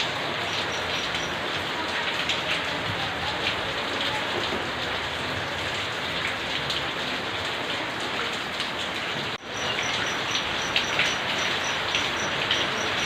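Steady rain falling, with individual drops tapping close by. The sound cuts out for a moment about nine seconds in, then comes back.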